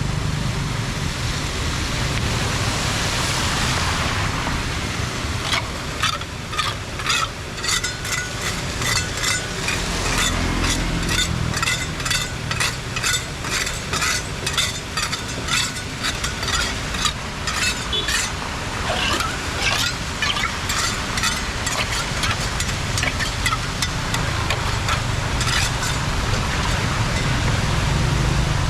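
Floodwater draining into a storm drain: a steady rush of water with a long run of quick, irregular splashing gurgles that starts a few seconds in and fades near the end.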